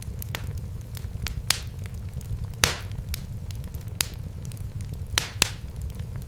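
Wood fire crackling in a fireplace: sharp pops and snaps at irregular intervals over a steady low rumble, the loudest pop a little under three seconds in.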